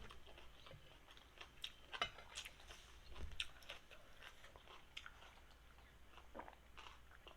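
A person chewing food, faintly, with soft irregular clicks and smacks of the mouth.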